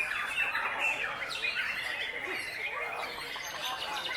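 Many caged songbirds singing at once, a dense overlapping chorus of whistles, trills and chirps.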